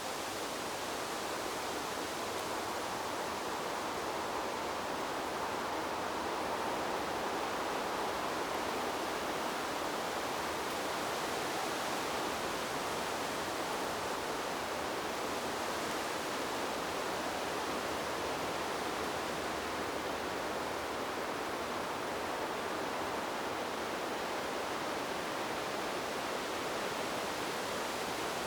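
Wind blowing through a bamboo grove, the leaves rustling in a steady, even hiss.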